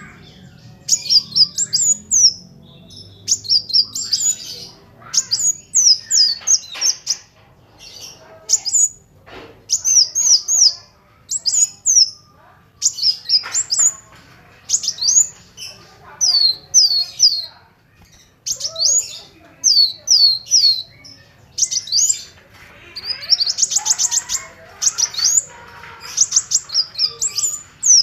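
Kolibri wulung sunbird singing: bursts of quick, high, sharp chirps separated by short pauses. A fast trill comes late on.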